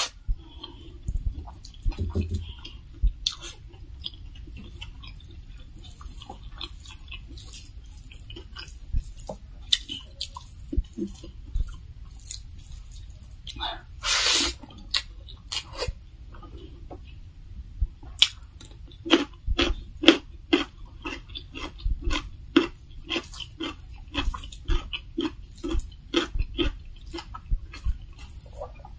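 Close-miked wet chewing and lip-smacking of a mouthful of rice and fried pork, with quick mouth clicks that settle into a steady run of about three to four a second in the second half. A brief louder noise comes about halfway, as a handful goes into the mouth.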